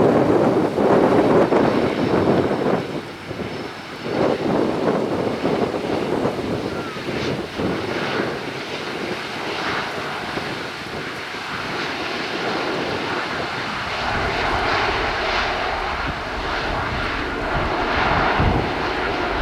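Jet engines of a Japan Airlines Boeing 767-300ER after landing, a steady loud rushing noise; a steady hum joins in about two-thirds of the way through.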